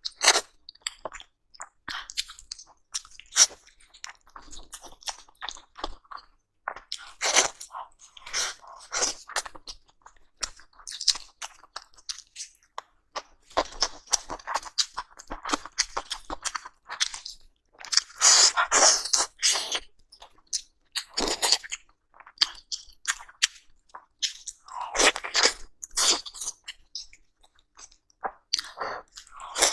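Close-miked chewing and biting of braised steak: irregular wet crunches, smacks and clicks, with short pauses between mouthfuls.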